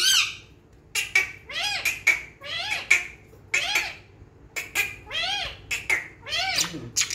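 Budgerigars calling: a string of short squawking chirps, each rising and falling in pitch, coming roughly every half second from about a second in.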